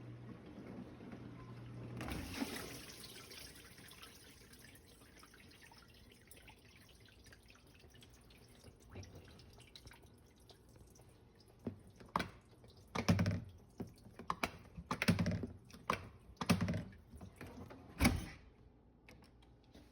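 Water splashing inside a dishwasher in short, irregular bursts, several in the last eight seconds after a quiet stretch. It is heard while the machine runs a test cycle and appears to be working normally.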